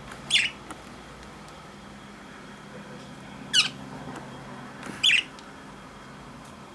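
Pet budgerigar giving three short, sharp, high chirps: one just after the start, one in the middle and one about a second and a half later.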